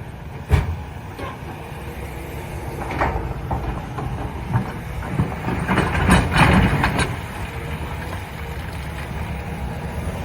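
Excavator's diesel engine running steadily, with a sharp knock about half a second in, another near three seconds, and a spell of clattering around six to seven seconds in as old concrete is handled.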